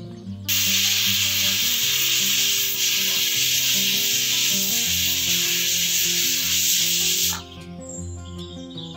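Pressure cooker whistle: steam hissing out of the weight valve in one loud, even blast of about seven seconds that starts and cuts off abruptly, the sign that the cooker is up to pressure. Background music plays underneath.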